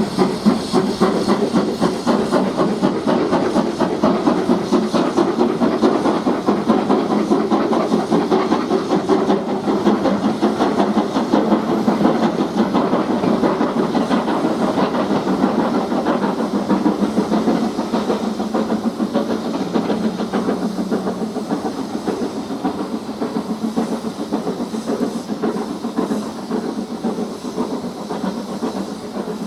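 Steam locomotive working a train, its exhaust beating rapidly over a constant hiss of steam. It gradually fades over the last several seconds.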